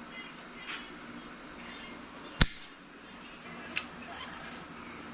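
Two sharp clicks, a loud one about two and a half seconds in and a softer one a little over a second later, over a steady background hiss and faint hum.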